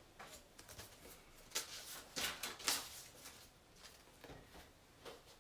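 A scatter of soft, short rustles and taps, the sound of things being handled, loudest in the middle.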